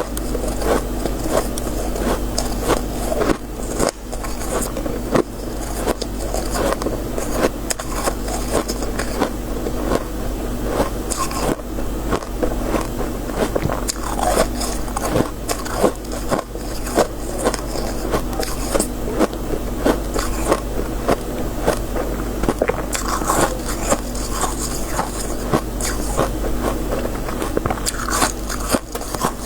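Close-miked biting and chewing of crisp freezer frost and shaved ice: a dense, continuous run of crunches and crackles with no pauses, over a steady low hum.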